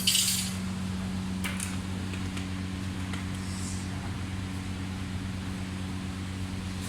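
Steady low electrical hum from a mains-powered machine, with a sharp metallic clink right at the start and a few light taps and a short hiss after it.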